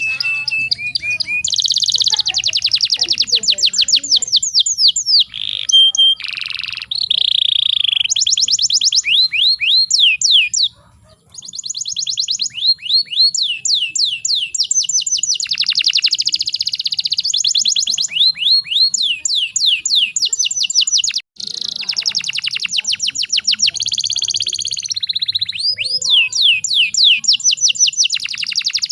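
Domestic canary singing in fast rolling trills of rapid repeated falling notes, with a few held whistled notes; the song breaks off abruptly twice.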